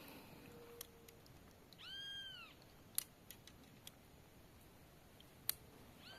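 A faint animal call like a meow: a short cry that rises and falls in pitch, heard about two seconds in and again at the very end, with a few sharp clicks between.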